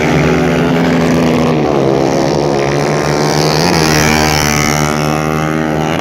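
Several 150cc race motorcycles running together on a dirt track, their engines revving with pitches rising and falling as they accelerate and back off.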